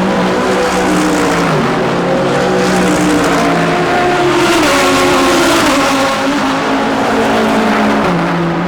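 Several DTM GT3 race car engines running hard at once, their notes holding steady pitches and stepping from one to the next as the cars change gear.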